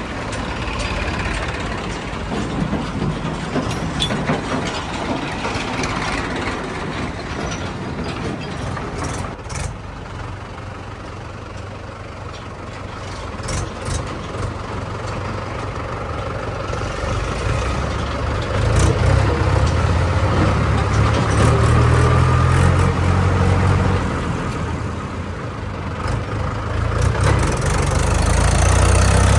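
Heavy diesel engine of a backhoe loader or tractor running, growing louder about two-thirds of the way through, with a few sharp knocks along the way.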